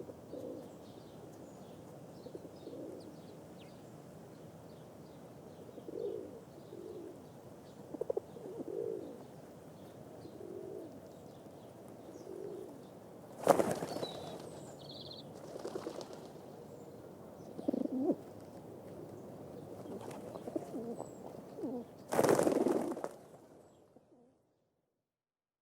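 Pigeons cooing, a series of short low coos repeating every second or two over a faint background hiss. Two loud bursts of wing flapping come about 13 seconds in and again near the end, and then the sound stops.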